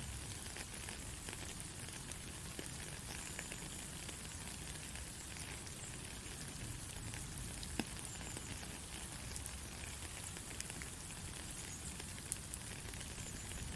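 Steady rain falling: an even hiss with a few sharp drop ticks.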